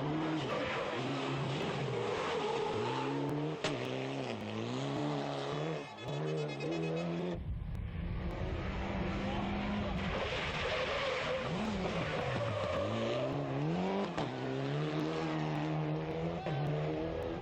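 Rally car engines revving hard, their pitch climbing and dropping again and again through gear changes and corners. About seven seconds in the sound cuts abruptly to another stretch of engine, now with a low rumble underneath.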